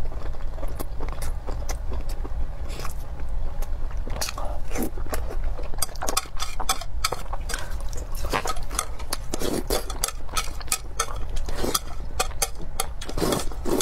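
Close-miked chewing of braised pork in sauce: a dense run of short clicks and smacks from the mouth, over a steady low hum.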